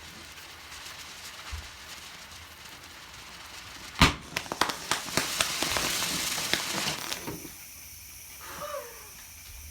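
Small home-built hybrid rocket motor with a sugar–PVA fuel grain on a static fire. A sharp bang about four seconds in, then about three seconds of crackling, popping hiss that dies away.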